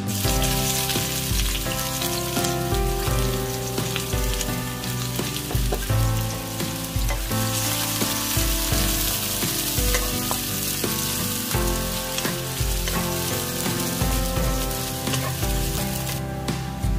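Sliced shallots frying in hot oil in a wok, a loud sizzle that starts suddenly as they drop into the oil and falls away shortly before the end. The shallots are being fried until fragrant and brown.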